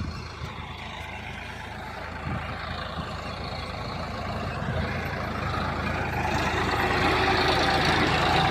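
Tractor engine running, its sound growing steadily louder through the second half.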